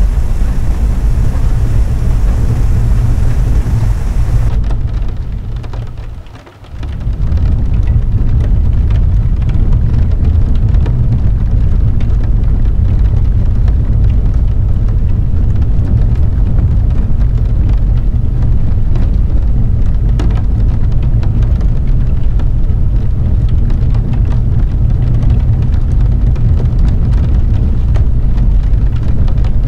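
Heavy rain: a dense, steady hiss over a deep low rumble. About six seconds in it fades briefly and swells back, and the top of the sound is duller from then on.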